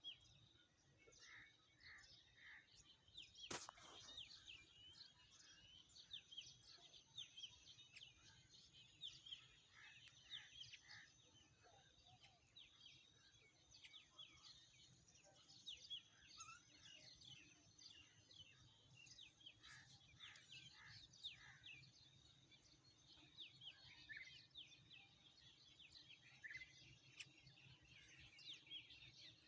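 Many small birds chirping and twittering together in a faint chorus of quick overlapping calls, with one sharp click about three and a half seconds in.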